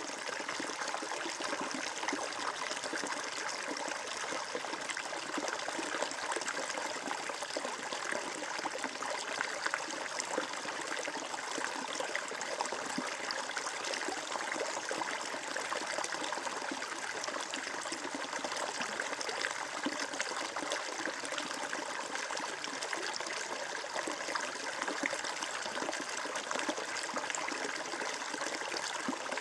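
Water flowing and trickling steadily, as a small stream running over stones, with a constant bubbling rush.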